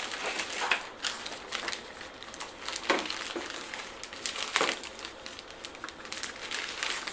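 Packaging crinkling and rustling, with scattered sharp handling clicks, as the robot vacuum's charging dock is taken out of its wrapping.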